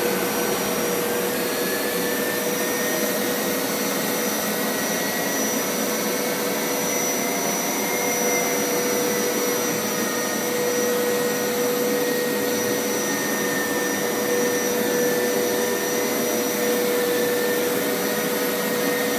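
Hoover Power Scrub Elite upright carpet washer running steadily on wash, its suction motor giving a steady whine with a faint pitch wavering a little as it is pushed over the carpet.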